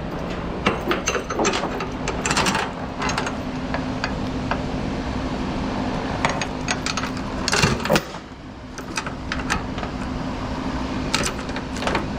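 Steel load chain clinking and rattling in irregular bursts as it is wrapped and pulled around a cable reel, over a steady low engine hum.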